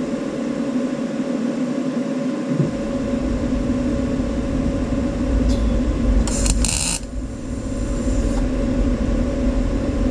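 Steady machine hum running throughout, deepening about two and a half seconds in, with a couple of brief hisses about six to seven seconds in.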